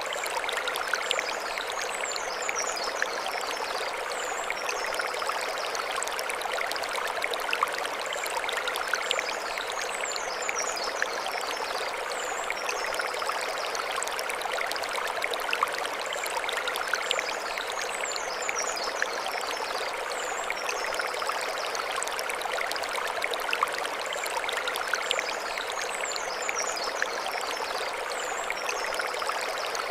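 Mountain stream flowing over stones: a steady rushing and trickling with small splashes. A short, high twittering phrase comes back about every eight seconds above the water.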